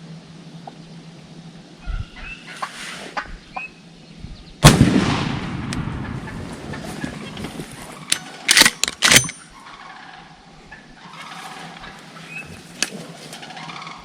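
Wild turkey calling with short gobbles and clucks, then a single loud shotgun blast about five seconds in that rings out and fades over a couple of seconds. A quick cluster of sharp clatters follows about four seconds later.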